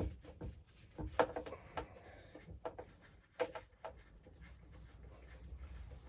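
Irregular light clicks and knocks of hand tools and parts being handled while a lawnmower's recoil starter is unbolted.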